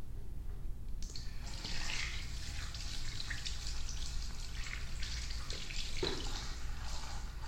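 Water running, starting about a second in, as in rinsing during a shampoo.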